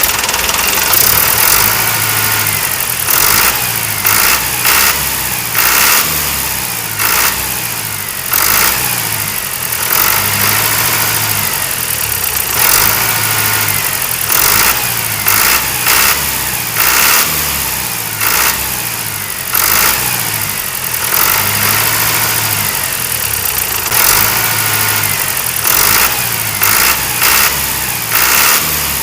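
Tractor engine running steadily, with repeated short surges of revving every second or two.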